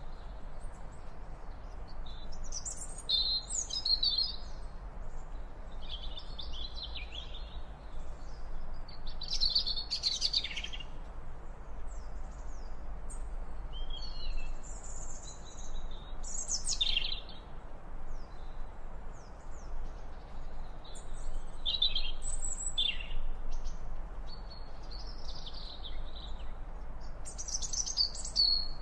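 Birds chirping and calling: short, high, varied calls come every second or two throughout, over a steady low background hiss.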